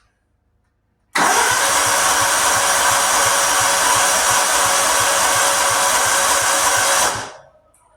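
Electric starter cranking an old John Deere riding lawnmower's engine for about six seconds, with an even, rapid chugging, starting about a second in; the engine does not catch.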